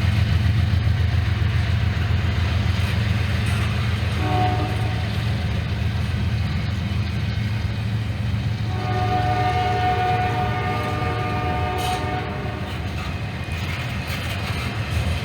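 Norfolk Southern diesel locomotive with its engine rumbling steadily, sounding its horn as a chord of several tones: a short blast about four seconds in, then a long blast of about three seconds.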